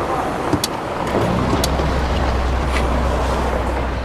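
A car running, with a steady low hum and a couple of light clicks.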